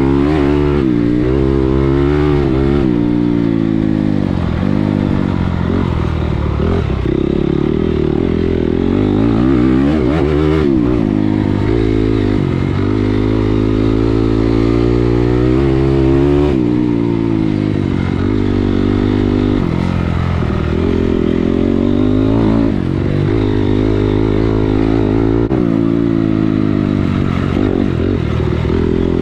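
Motocross dirt bike engine running hard under a rider, its pitch climbing under throttle and dropping off again and again, with a few sudden drops in pitch.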